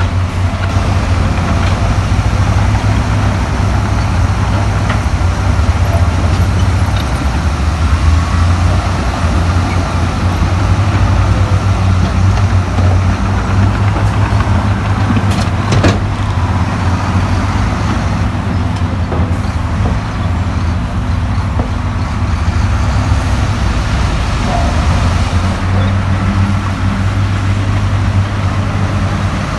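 Heavy diesel earthmoving machinery running steadily, with a deep engine rumble and one sharp knock about halfway through.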